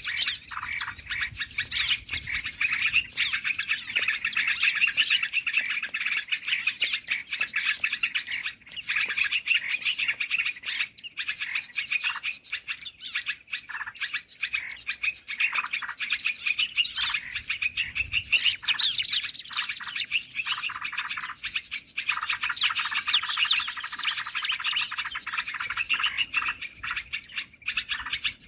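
Bird-trapping lure call: dense chirping and chattering of many small birds, the calls overlapping with hardly a pause, growing louder for a few seconds about two thirds of the way through.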